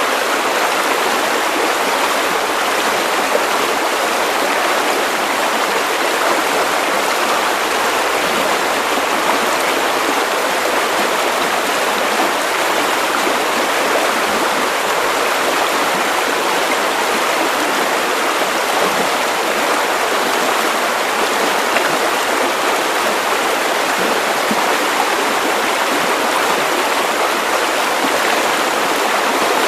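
Steady white noise for sleep: an even, unchanging hiss with little bass.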